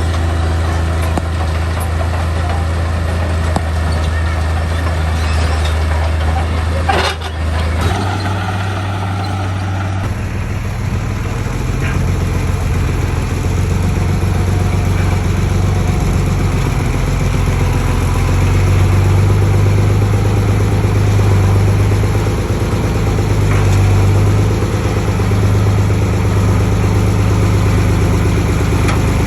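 Heavy diesel construction-machine engine running steadily, with an abrupt change in its sound about ten seconds in.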